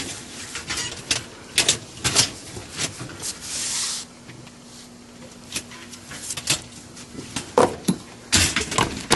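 Scattered knocks and clicks of dishwasher doors and metal fittings being handled, with a short hiss about three seconds in and a faint steady low hum in the second half.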